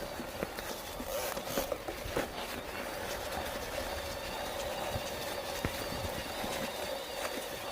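Mountain bike rattling over a rough trail: irregular clicks and knocks over a steady hum and wind rush.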